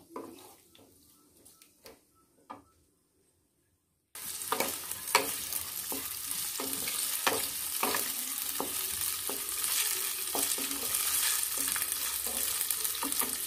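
Near silence with a couple of faint clicks, then, about four seconds in, paneer cubes start sizzling in hot oil in a kadai. A wooden spatula stirs them with regular taps and scrapes against the pan, about two a second.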